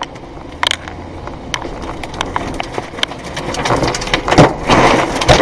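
Tornado wind with many sharp knocks and clatters of flying or banging debris, the rushing noise growing louder over the last couple of seconds.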